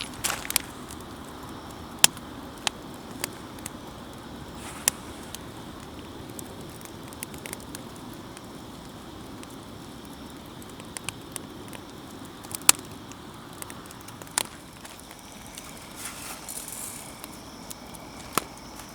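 Wood campfire burning with a steady hiss and irregular sharp pops and crackles, a few loud snaps several seconds apart.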